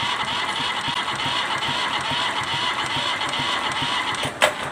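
Kubota Z751 two-cylinder diesel being cranked over by its starter motor, with a slow, even rhythm of about three compression strokes a second and the engine not catching; the cranking stops with a sharp clack near the end. This is a hard-starting engine.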